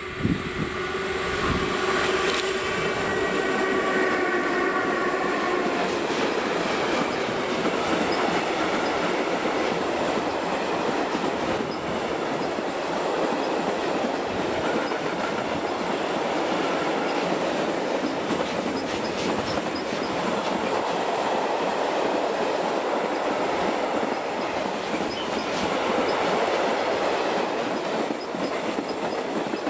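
Electric-hauled freight train passing close by. A chord of steady tones comes from the locomotive as it goes past and fades out about six seconds in. Then comes the continuous rumble and clatter of loaded open and log wagons rolling over the rails, their wheels clacking.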